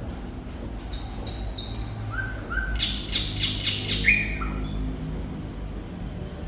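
Thrush nightingale singing a phrase: thin high notes, then a fast loud rattling run of about five strokes a second in the middle, short lower notes, and high whistles near the end, over a steady low hum.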